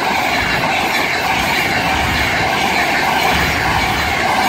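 Class 390 Pendolino electric train passing through at speed, a loud, steady rushing noise.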